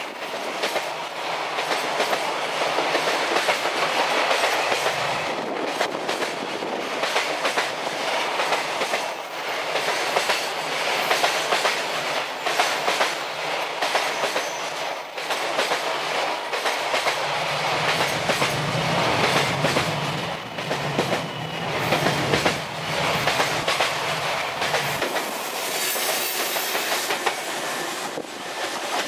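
Container freight train climbing a grade and passing close by, hauled by an EF210 electric locomotive. Its wagon wheels click steadily over the rail joints. Near the end the EF210 banking locomotive pushing at the rear goes past.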